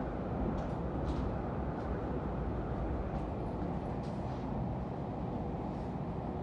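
Double-decker electric multiple-unit train running, heard from inside the passenger cabin: a steady low rumble with faint ticks now and then.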